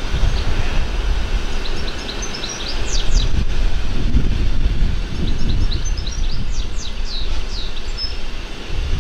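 A songbird singing twice, each phrase a quick run of short high notes ending in a few downward sweeps, over a steady low rumble.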